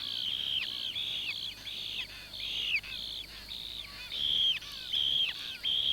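Kingfisher nestlings calling for food in the nest tunnel: a steady string of high calls, each sliding down at its end, about two or three a second.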